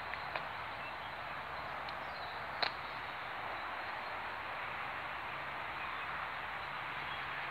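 Outdoor ambience of a steady hiss with a few short, sharp bird chirps; the clearest comes about two and a half seconds in.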